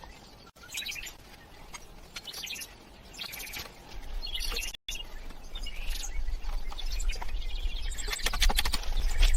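Birds chirping in short scattered bursts, with irregular clicks and knocks that grow denser near the end, over a low rumble in the second half.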